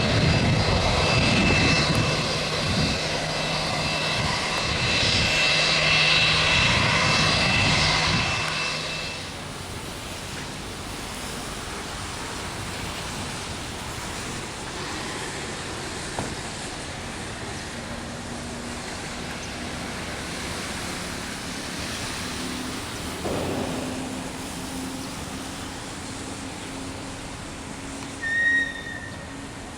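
Aircraft engines running loud with a steady whine, falling away about nine seconds in. A steady hiss of rain carries on after it, and a short high chirp sounds near the end.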